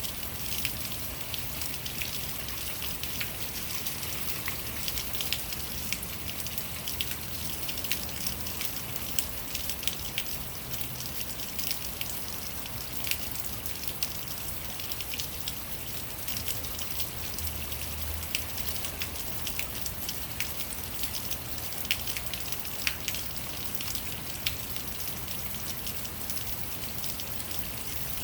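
Rainwater running down a rain chain, splashing and dripping irregularly from link to link with many sharp little splats over a steady hiss of falling water.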